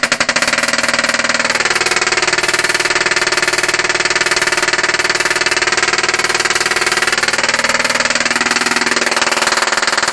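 Solid-state Tesla coil (SSTC) firing sparks in normal interrupter mode during a test after repair: fast crackling snaps that merge into a harsh buzz. Its pitch slides down about a second and a half in and climbs back up near the end.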